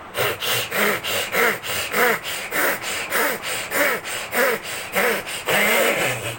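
A man imitating with his voice a machine sawing through wood: rasping, breathy strokes about three a second, ending in one longer drawn-out stroke near the end.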